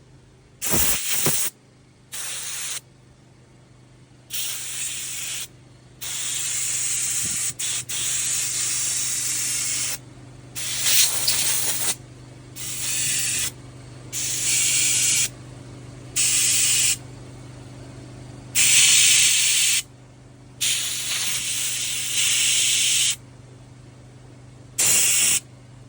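About a dozen bursts of pressurized spray hiss of varying length, stopping and starting, as the DD15 diesel's fuel rail is blown and sprayed clean, over a steady low hum.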